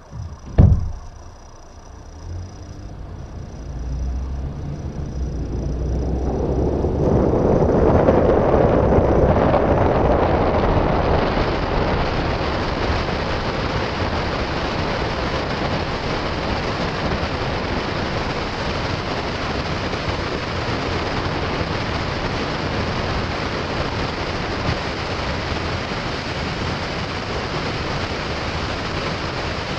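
A sharp knock, then a low rumble that builds over several seconds into a steady, loud rushing of water as a kayak moves fast along a street.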